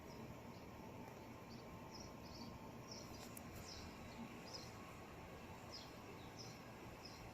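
Small birds chirping: short, high chirps repeated about twice a second over a faint steady background hiss.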